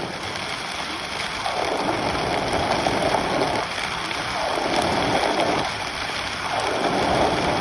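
Torrential downpour: a sudden cloudburst of heavy rain pouring down in a dense, steady hiss that swells and eases every couple of seconds.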